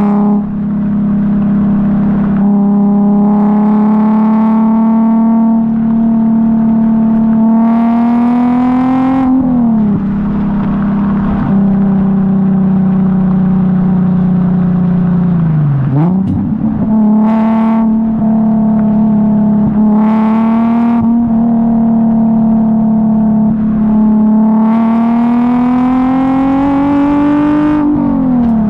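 Infiniti G37S's VQ37VHR V6 running through a custom 3-inch single catback exhaust while driving, with a steady drone. The pitch climbs and then drops sharply at gear changes a little under ten seconds in and again near the end, and dips and recovers around halfway.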